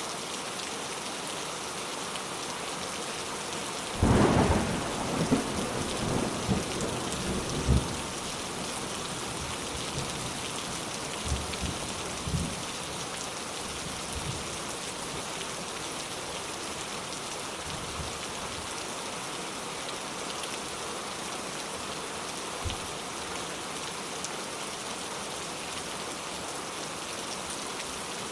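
Steady rain falling, with a clap of thunder that breaks sharply about four seconds in and rumbles and crackles for several seconds before fading, followed by fainter rumbles.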